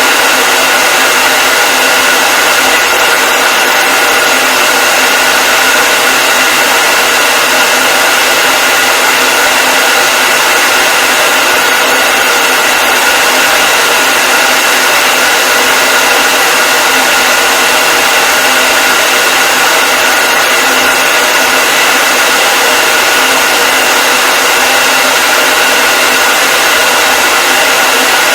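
Hair dryer running continuously: a steady blowing hiss with a constant motor whine over it.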